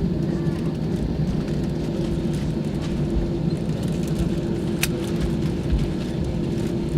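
Airbus A320 airliner running steadily: a low rumble with a constant hum that neither rises nor falls. A single sharp click sounds about five seconds in.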